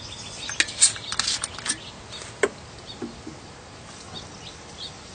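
A few sharp clicks and knocks from handling gear during the first couple of seconds, followed by faint bird chirps in the background.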